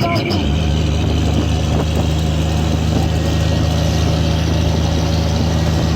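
Scania truck's diesel engine running steadily with a low, even drone; its note drops slightly about a third of a second in, then holds.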